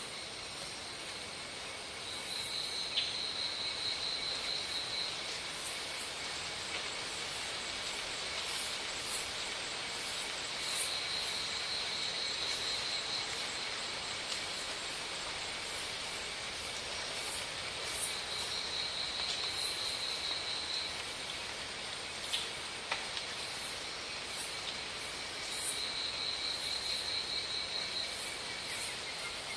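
Insects calling over a steady hiss: a high, pulsed buzz lasting two to three seconds repeats four times, about every seven to eight seconds.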